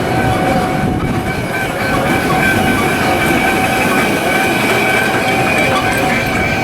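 Wildwood boardwalk tram car rolling along at a steady pace: a constant rumble from the wheels on the boardwalk, with a steady whine held over it.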